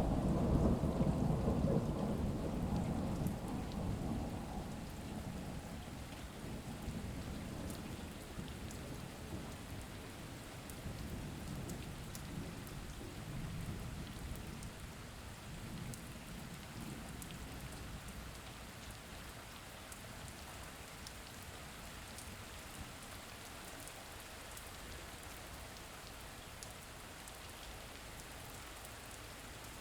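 Steady rain with a low roll of thunder that dies away over the first few seconds, leaving an even rain hiss with scattered sharp drop ticks.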